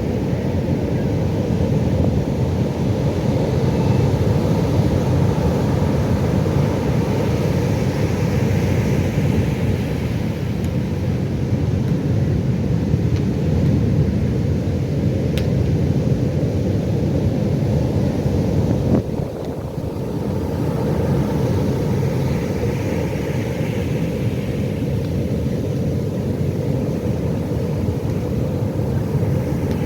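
Pacific Ocean surf: a steady low rumble of breaking waves, with a brighter wash of surf swelling and fading twice. The level drops suddenly for a moment just past the middle, then builds again.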